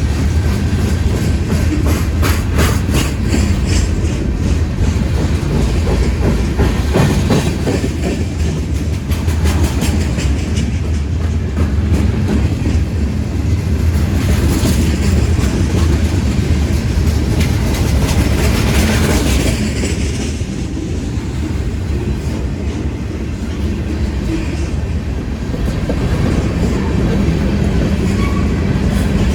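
Freight cars of a long train rolling past, with a steady low rumble and wheels clicking over the rail joints, the clicks thickest in the first few seconds.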